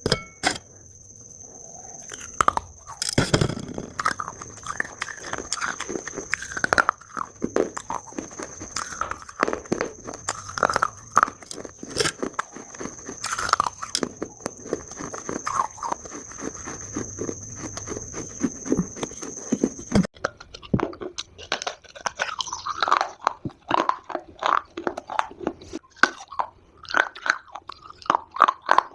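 A person biting and chewing dry chunks of Multani mitti (fuller's earth clay) close to the microphone: a dense, irregular run of crisp crunches and snaps, with a few louder bites. A thin, steady high whine runs underneath and cuts off about two-thirds of the way through.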